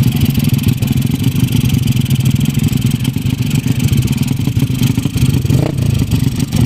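Motorcycle engine running loudly and steadily, with a fast, even exhaust beat.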